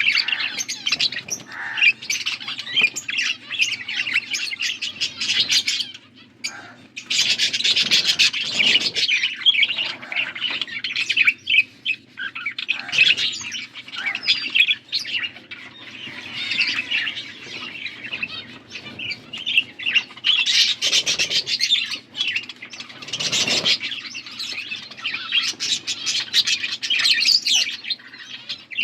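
Budgerigars chirping and warbling continuously, a busy stream of rapid high chirps and chattering with only brief pauses.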